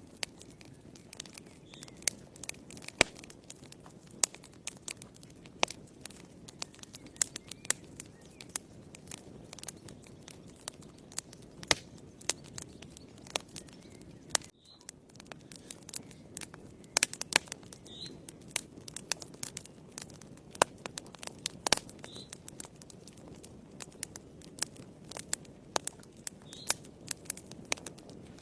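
Wood fire burning in a fireplace: irregular crackles and sharp pops over a steady low rustle of flames. The sound drops out for an instant about halfway through.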